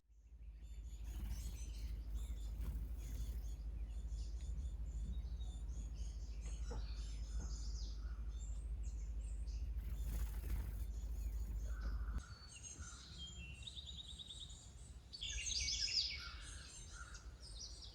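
Several birds chirping and singing, including a quick trill, over a steady low rumble that drops away abruptly about twelve seconds in.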